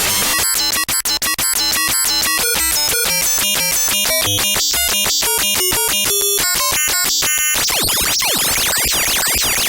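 Arpeggiated Sylenth synth run through a waveshaper distortion and the Redux bit-crusher, giving a computery chatter of rapid stepped notes. About three-quarters of the way through it changes to a dense tangle of fast sweeping pitch glides.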